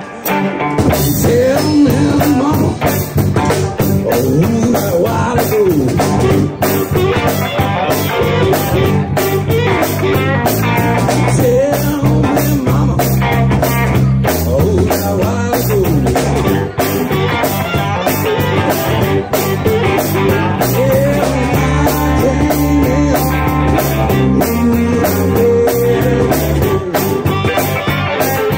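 Live blues band playing an instrumental passage: guitar with bent notes over bass and drums, with a steady beat that comes in about a second in.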